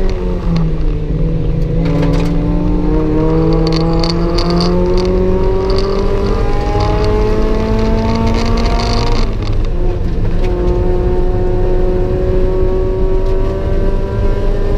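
Mazda MX-5 NA 1.8-litre four-cylinder engine heard from inside the cabin, pulling hard with its pitch climbing steadily for about seven seconds. About nine seconds in it cuts for an upshift, then climbs again from a lower pitch, over steady road and wind noise.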